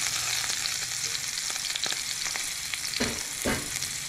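Egg pancake of beaten eggs, ham and cheese sizzling steadily in a frying pan, a high hiss with fine crackling. Two brief knocks sound about three and three-and-a-half seconds in.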